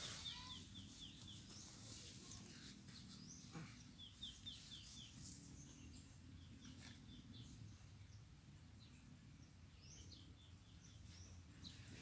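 A small bird singing faintly: short phrases of quick, evenly spaced high chirps, about half a dozen notes each, repeated every few seconds over a low steady background rumble.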